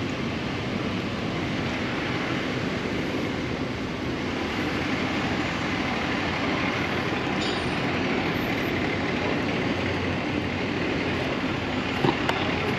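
Motorcycle running steadily while riding, an even engine and road noise with a single sharp click near the end.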